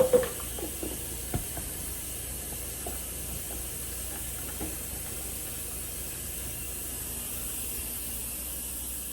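A few sharp clinks of a plate and cup being handled, then a steady hiss.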